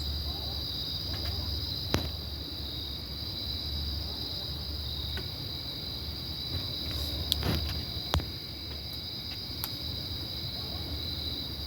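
Steady high-pitched insect chirring throughout, over a low hum, with a few faint clicks.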